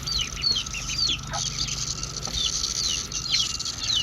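A flock of chickens peeping and clucking excitedly: many short, high, falling calls overlapping several times a second as they scramble for cicadas.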